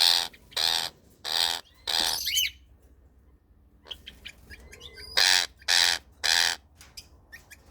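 Ring-necked parakeet screaming in a series of short, harsh squawks about half a second apart: four, then a pause of about two and a half seconds, then three more. These are calls of a moulting bird being handled while its pin feathers are peeled.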